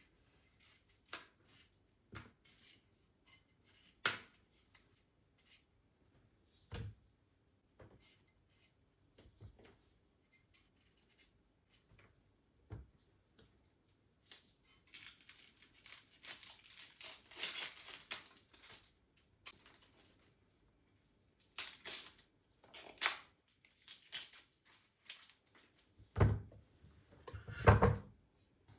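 Household handling sounds: scattered small clicks and knocks, a few seconds of rustling around the middle, and two heavier thumps near the end.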